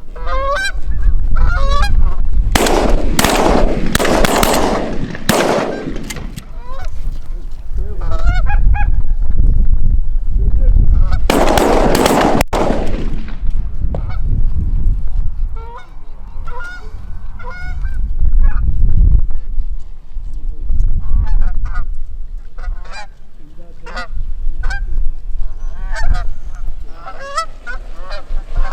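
Geese honking over and over, a flock calling, with several loud bursts of noise about three to six seconds in and again around twelve seconds in, over a low rumble.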